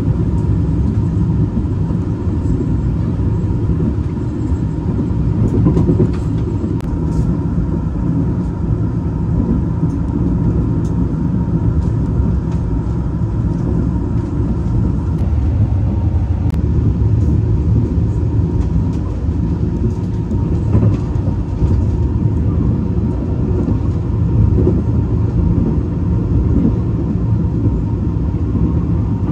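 Chiang Mai–Bangkok passenger train No. 10 running: a steady low rumble with faint scattered clicks and a faint steady tone.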